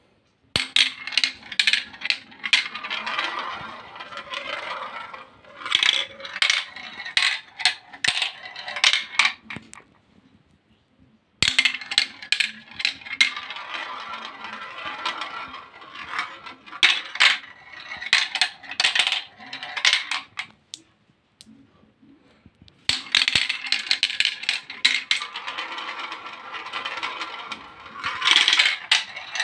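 Chains of dominoes toppling one after another: a fast run of small clicking clatter that goes on for about nine seconds, breaks off, and starts again twice more.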